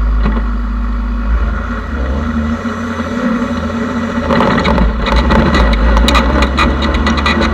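Engine running steadily with a low drone, during an engine-computer (ECU) tuning session; about four seconds in a loud crackling, rattling noise joins it.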